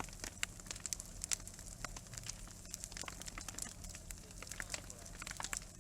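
Bonfire crackling, with many irregular sharp pops and snaps.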